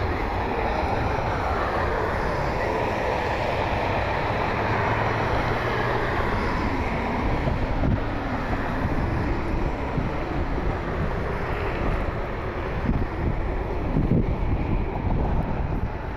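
Jet airliner engines running as the plane passes, a steady rumble with a faint whine that glides down in pitch over the first few seconds, with wind buffeting the microphone.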